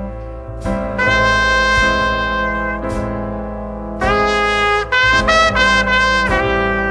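Slow, mournful New Orleans-style jazz band music: a trumpet plays long held notes over piano chords and a steady low drone. A second brass line comes in about four seconds in with bending, wavering notes.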